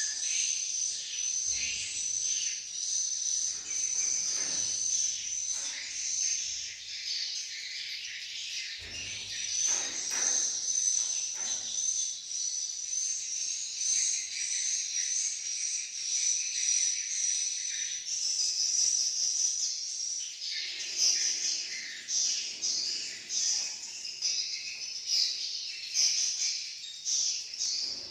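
Many swiftlets twittering: dense, high-pitched chirps and trills that go on without a break and grow busier after about eighteen seconds.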